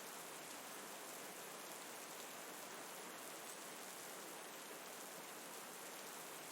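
Steady rain: an even hiss of falling rain that holds level with no change.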